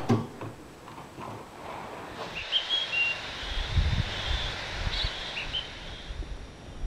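A telephone handset clatters down onto its cradle at the very start. Then a small bird gives a few short, high chirps over a low rumble of wind on the microphone.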